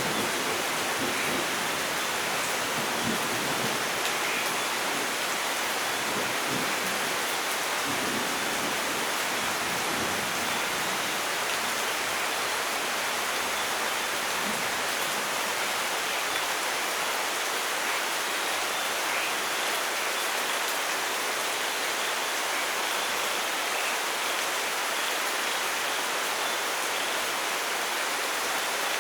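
Steady rain falling as an even hiss, with the low rumble of a thunderclap dying away over the first several seconds.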